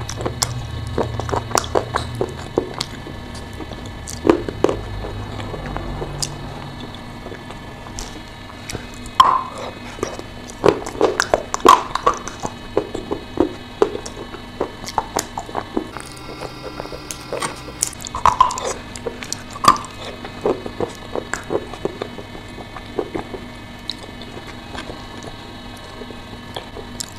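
Close-up chewing and wet mouth clicks of a person eating soft chalk clay, with louder clusters of bites about nine to twelve seconds in and again around eighteen to twenty seconds.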